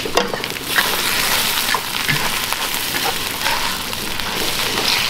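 Ground spice paste frying in oil in a wok on a portable gas stove, with a steady sizzle and the occasional scrape of a metal spatula stirring it.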